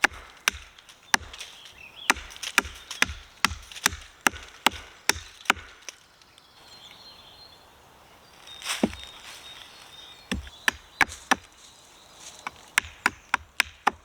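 A blade chopping into wood while a stick is shaped into a bow-drill bow. Sharp strikes come about two a second, stop for a few seconds in the middle apart from one blow, then start again.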